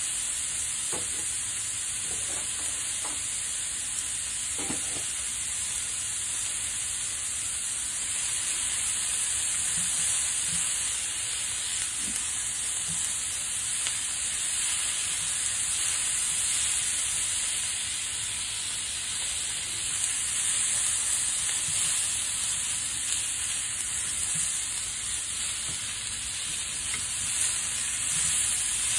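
Sausages and sliced onions sizzling steadily in a nonstick frying pan, with occasional light scrapes of a plastic spatula stirring them.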